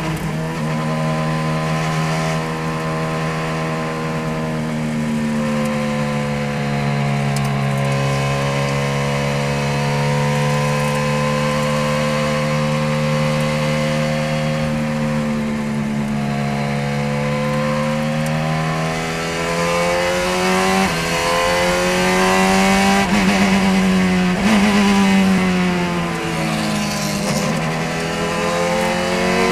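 Radical SR3 sports-racing car's motorcycle-derived engine running hard through a lap, one continuous engine note. The pitch falls slowly over the first several seconds, holds low, then climbs again, and swings up and down more quickly, with sudden drops, in the last third.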